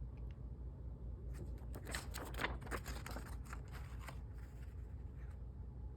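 Hands handling packaging: a run of light rustles and clicks starting about a second in and dying away after about four seconds, over a low steady hum.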